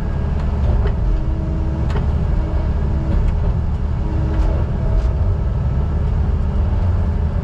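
Heavy diesel engine of logging equipment running steadily with a deep rumble, with a higher tone that comes and goes a few times.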